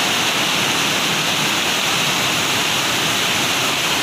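Floodwater rushing steadily, a continuous loud wash of water without a break.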